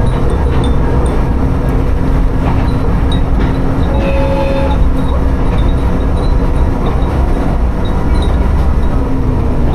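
Tsugaru Railway diesel railcar running between stations: a steady low rumble of the engine and wheels on the rails. Faint high tinkles scattered throughout, from the wind chimes hung in the car, and a brief tone about four seconds in.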